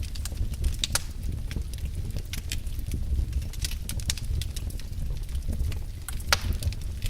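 Wood fire burning in a fireplace: a low, steady rumble of flames with scattered sharp crackles and pops, the loudest pops about a second in and near the end.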